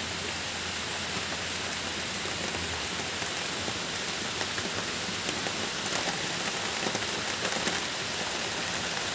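Heavy rain falling steadily, a constant even hiss with faint scattered drop ticks.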